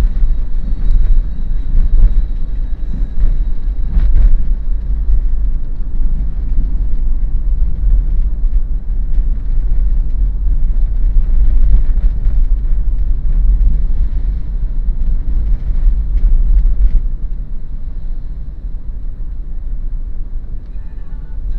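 A 2013 Daihatsu Terios on the move: a steady, deep road-and-engine rumble with a few faint clicks, easing down in loudness about three-quarters of the way through.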